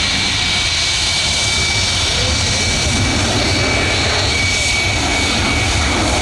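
Airbus A380 jet engines running steadily at taxi power: a loud, even rush with a steady high whine over a low rumble.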